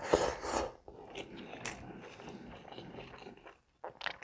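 A mouthful of rice and curry eaten by hand and chewed close to the microphone. It starts with a few loud bites in the first second, then goes on as softer steady chewing, which stops briefly near the end.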